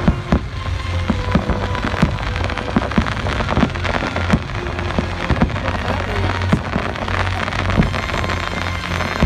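Fireworks shells bursting with sharp bangs every second or so amid dense crackling, over the show's loud music soundtrack.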